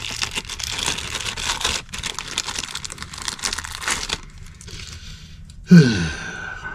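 Crinkling, crackling handling noise as hands and tools work among the wires and parts inside an electric furnace's cabinet, dense for about four seconds and then quieter. A short falling pitched sound comes near the end.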